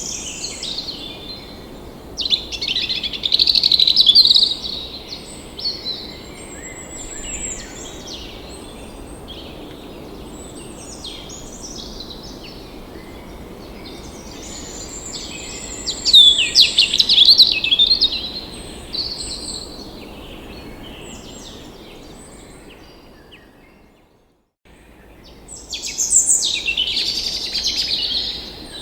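Several songbirds chirping and trilling over a steady background hiss, with louder bursts of song three times. About 23 seconds in, the whole sound fades out briefly and fades back in.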